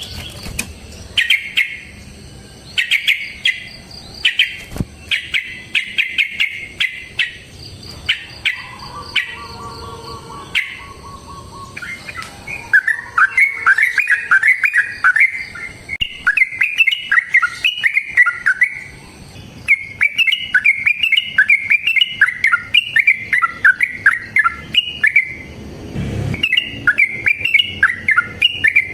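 Yellow-vented bulbuls singing. First come short, repeated chattering phrases. From about halfway in, the song turns into long, continuous bubbling runs: the long rolling 'ropel' song used as a lure to set other bulbuls singing.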